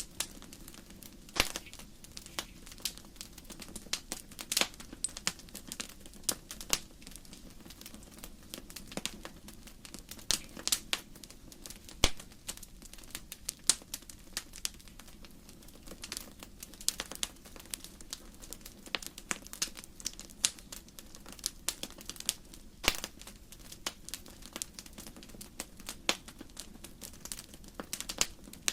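Wood fire crackling: irregular sharp pops and snaps of burning logs over a low steady rumble of the flames.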